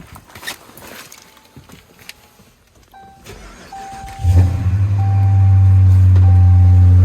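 2015 Dodge Charger R/T's 5.7-litre Hemi V8 cold start: the starter cranks briefly and the engine catches about four seconds in, loud at first, then settles into a steady cold idle. A dashboard chime beeps about once a second from about three seconds in.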